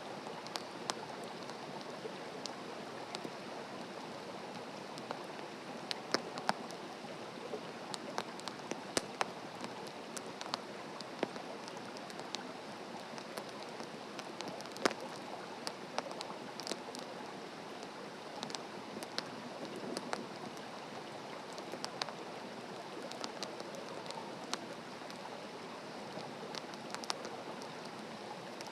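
Wood campfire burning, with irregular sharp crackles and pops over a steady hiss.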